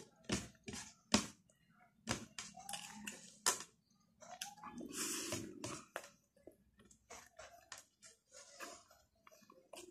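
A man chewing food with his mouth open, with a string of sharp wet lip smacks and mouth clicks and a longer, denser stretch of chewing noise about five seconds in.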